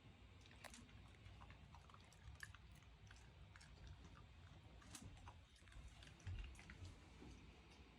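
Shiba Inu chewing and biting on a toy, with faint irregular clicks and crunches and a soft thump about six seconds in.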